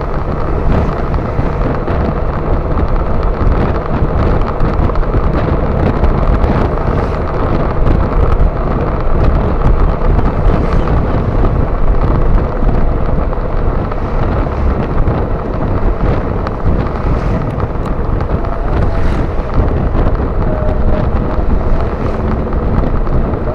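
Wind buffeting the microphone of a riding motorcycle, with the motorcycle's engine and road noise running steadily underneath.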